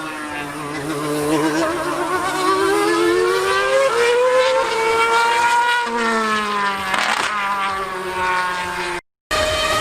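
High-revving racing engine on a circuit, its pitch climbing and then falling away as it passes, with a second, lower engine note running steadily underneath. The sound cuts out briefly near the end.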